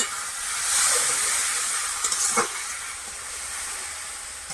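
Spice masala frying in oil in a karai, hissing and sizzling as a little water is added, the hiss swelling about a second in and slowly dying down. A few short scrapes of a spatula stirring come around two seconds in.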